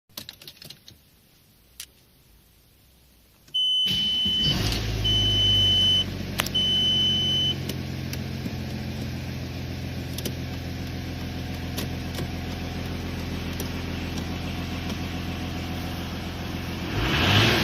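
Audi A6 C5's 2.5-litre V6 TDI diesel engine starts about three and a half seconds in and settles into a steady idle. Three long electronic beeps sound just after it catches, and near the end the engine begins to rev up.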